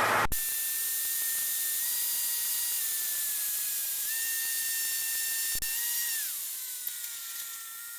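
Cessna 152 stall warning horn sounding a steady, high, whistle-like tone. The pitch dips slightly about halfway through and slides lower near the end, as the airspeed bleeds off around touchdown.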